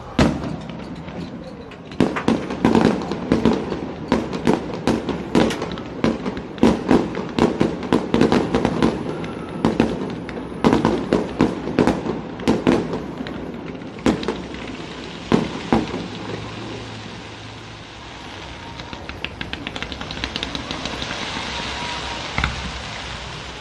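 Aerial fireworks bursting overhead: rapid volleys of sharp bangs, then a few single bangs, and a stretch of fast crackling near the end.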